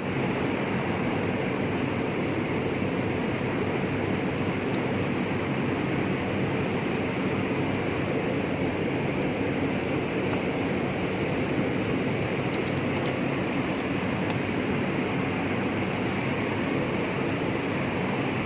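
Ford EcoSport engine running steadily in the engine bay, with no knocking standing out, its loose air filter housing now locked back in place to cure the rattle.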